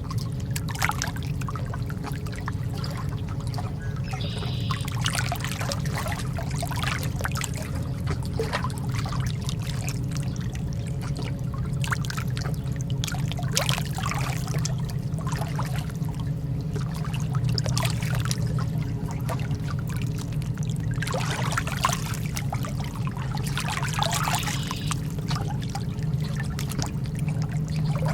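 Lake water lapping at the shore: small, irregular splashes and trickles over a steady low rumble.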